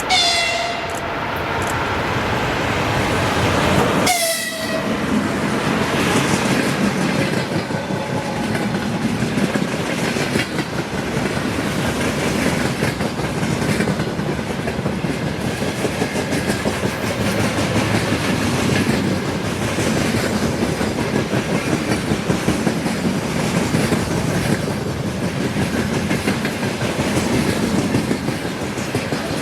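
Two short horn blasts from a 2ES10 "Granit" electric locomotive, one right at the start and one about four seconds in, each dropping slightly in pitch at its end. Then the freight train's wagons roll past steadily, with wheels clicking over the rail joints.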